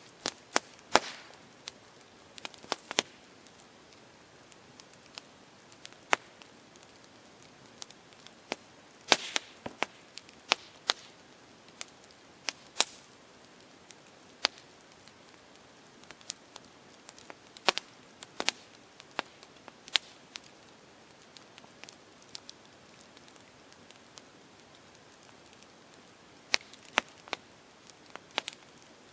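Campfire crackling: irregular sharp pops and snaps from the burning wood, scattered a second or so apart and sometimes in quick little clusters, over a faint steady hiss.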